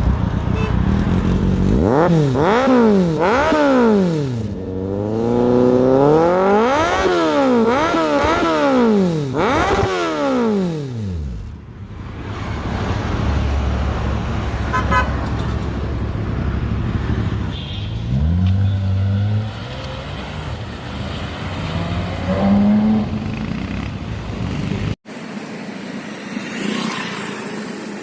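A sports car engine revved hard about six times in quick succession, pitch rising and falling with each blip, then running lower among street traffic. There is an abrupt cut near the end.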